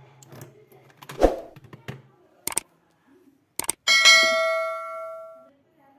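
Several sharp knocks and clatters of hard objects being handled, then a metallic clang about four seconds in that rings on with a clear tone for about a second and a half before fading.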